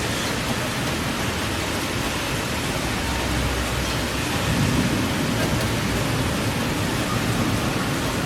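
Rain falling steadily, an even hiss with a faint low rumble under it.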